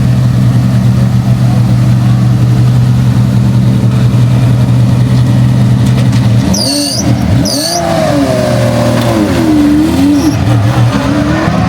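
A car's engine running with a steady low drone. About six and a half seconds in the engine note drops away, and wavering whining tones rise and fall in its place, a change that sounds like the car switching into hybrid electric mode.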